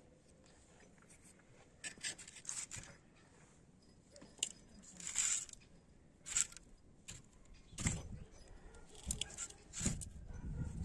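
Irregular short scrapes, rubs and clicks of objects being handled, with a couple of dull thuds near the end. No steady motor whine, so the grinder is not running.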